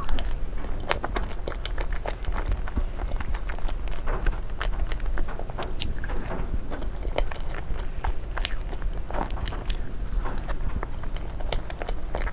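Close-miked eating: crunchy biting and chewing, with a dense run of sharp, irregular crackles and clicks over a steady low hum.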